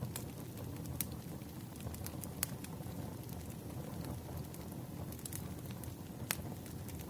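Burning firewood crackling, with irregular sharp pops over a steady low rumble; the loudest pops come about a second in, around two and a half seconds in, and near the end.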